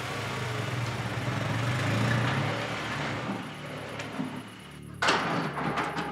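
Small hatchback car's engine running as it pulls away, the low hum swelling and then fading. About five seconds in, a sudden louder burst of noise cuts in.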